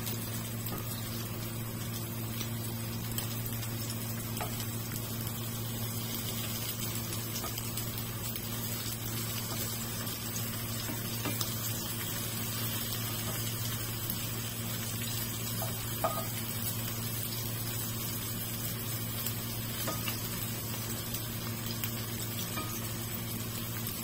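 Minced-chicken patties frying in oil in a nonstick pan, sizzling steadily, with a few light taps of a metal spatula. A steady low hum runs underneath.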